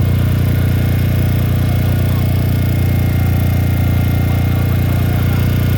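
Machinery running steadily with a low, even drone, like an engine or motor under constant load.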